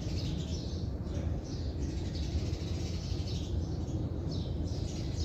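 Small birds chirping repeatedly in short falling chirps, over a steady low background rumble.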